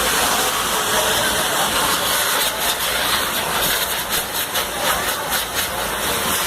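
Large bonfire burning with a steady, loud hiss, with a run of sharp crackles in the middle.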